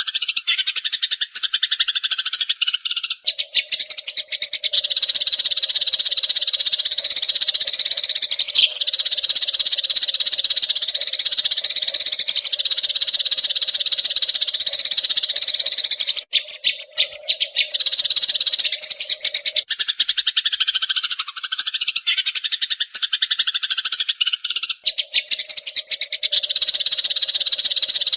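Eurasian tree sparrows chirping and chattering in a rapid, unbroken stream. A steady low hum runs underneath for long stretches.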